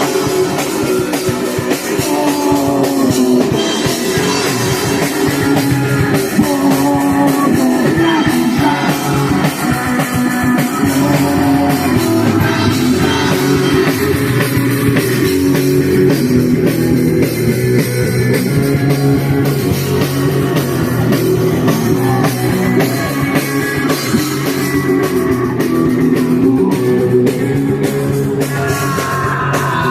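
Live punk rock band playing loudly: distorted electric guitars over a driving drum kit and bass, with little or no singing.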